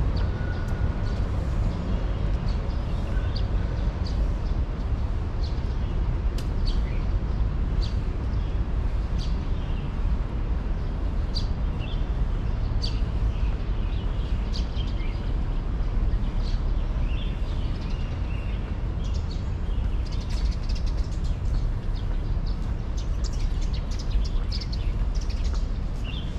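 Birds chirping in short, scattered calls, coming thicker near the end, over a steady low rumble.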